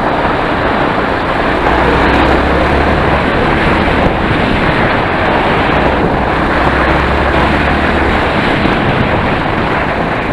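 Enduro motorcycle riding along, its engine running steadily under a loud rush of wind and road noise. A low steady hum comes through from about a second and a half in until near the end.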